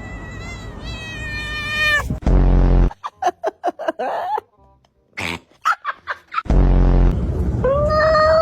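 Cats meowing: one long drawn-out meow, then a string of short quick meows, then another meow near the end. Loud, low, steady sound cuts in between them.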